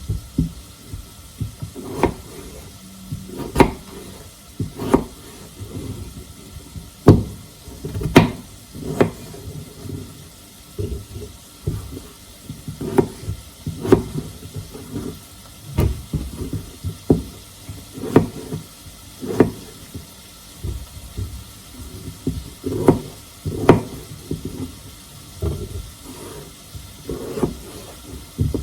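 Handling sounds of household work: irregular knocks and clatters, roughly one a second, with some louder ones among them.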